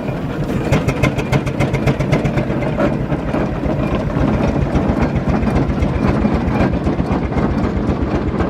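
Steam traction engines from a rally parade running past with a steady low rumble, over a rapid clatter of their motion that is thickest in the first few seconds.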